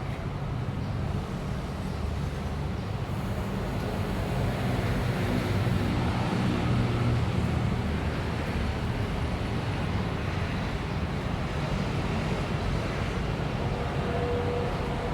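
Steady low rumble of background noise, swelling slightly partway through, with no clear bird calls standing out.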